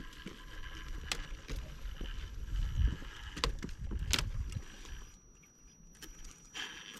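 Scale RC rock crawler's electric drive whining steadily as it crawls over rock, with a few sharp clicks and knocks from the rig on the rock. Low wind rumble underneath fades out near the end.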